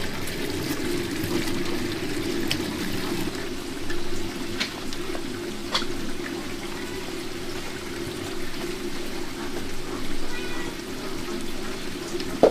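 Water pouring steadily, with scattered sharp clicks and a short cat meow about ten seconds in.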